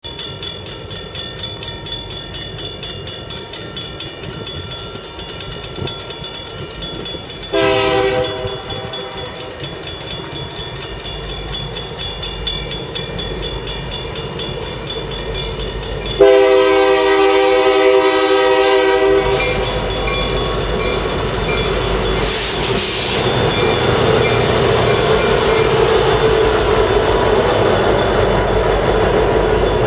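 Union Pacific diesel freight locomotives approaching with a steady rhythmic clatter, sounding the horn in a short blast about eight seconds in and a longer blast of about three seconds near the middle. After that comes the loud steady rumble of a train passing close by.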